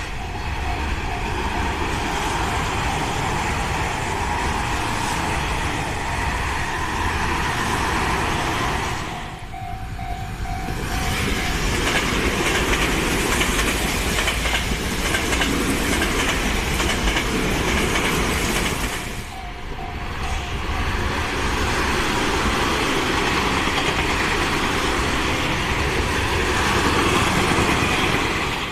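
Tobu Tojo Line trains passing at speed, a loud steady rumble of wheels clattering over the rail joints. The sound drops away briefly twice, where one passing train gives way to the next.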